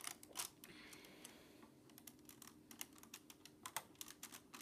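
Irregular small plastic clicks and clacks of LEGO bricks being handled while the top section of a LEGO airplane model is pried off, faint, a few clicks a second.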